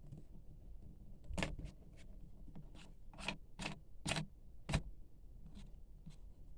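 Product packaging handled by hand during an unboxing: a run of about eight short, sharp scraping strokes at an uneven pace, the sharpest a little past the middle.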